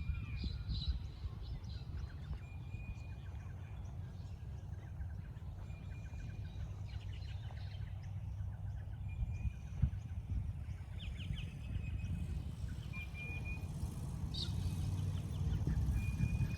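Birds calling: a short, steady whistled note repeated every couple of seconds, with bursts of rapid chirps, over a constant low rumble. A single brief knock a little after halfway.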